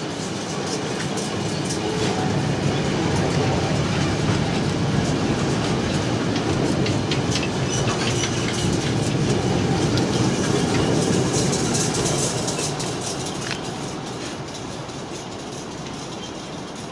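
Wagons of a long intermodal freight train rolling past: steady wheel-on-rail noise with clickety-clack over the rail joints, fading from about twelve seconds in as the last wagon goes by.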